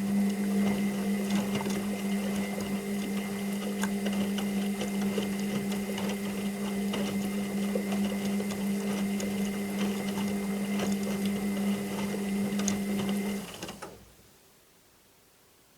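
Washing machine running with a steady motor hum and light rattling clicks, which cuts out about 13 seconds in and dies away to near silence.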